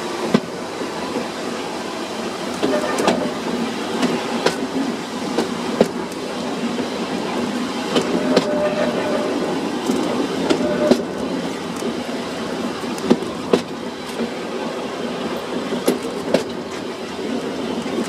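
Furka cogwheel railway train running along the rack track: a steady rumble of the wheels, broken every second or two by sharp irregular clicks.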